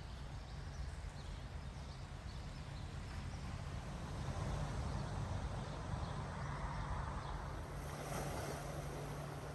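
Ocean surf washing in, with wind rumbling on the microphone; a wave swells up about halfway through.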